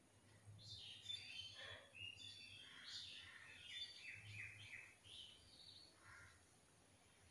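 Faint bird chirps and twittering: many short, high calls in quick succession that thin out in the last couple of seconds, over a low steady hum.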